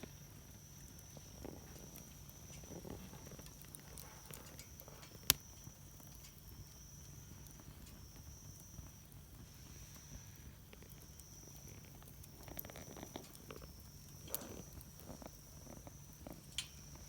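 Wood fire burning in a Solo Stove Campfire stove, crackling softly now and then, with one sharp pop about five seconds in and a couple of smaller pops near the end.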